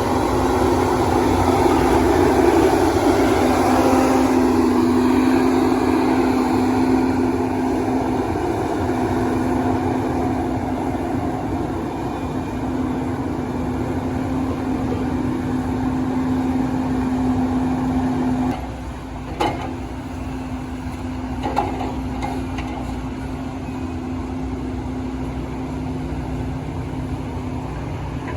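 Log truck engine running steadily with a constant hum; about two-thirds of the way through the level drops, and a few sharp knocks follow.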